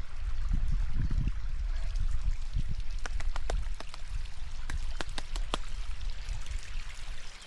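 Waterfall water rushing steadily over a low rumble, with a handful of sharp clicks in the middle.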